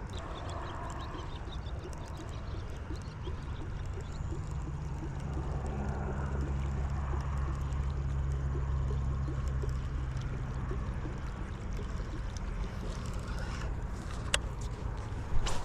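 A low, steady motor hum that swells in the middle and then fades, over faint water gurgling. Two sharp clicks come near the end.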